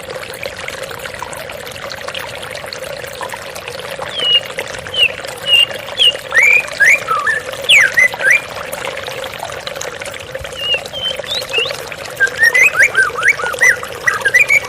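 Steady trickle of running water, with a white-rumped shama (murai batu) singing over it in two spells of quick, varied whistled notes, about four seconds in and again near the end.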